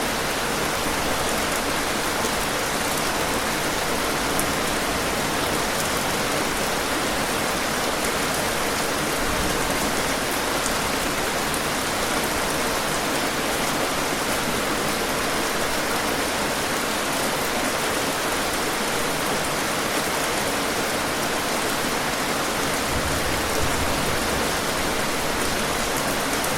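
Steady rainfall: a dense, even hiss of many raindrops that holds the same level throughout.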